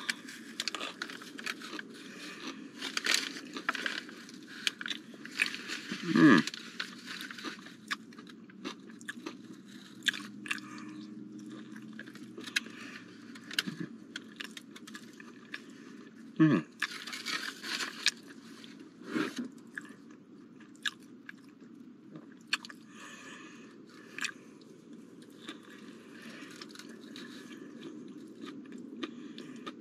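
A man biting into and chewing a honey barbecue chicken wrap close to the microphone: irregular wet chewing and crunching, with a few brief sounds from his voice between bites.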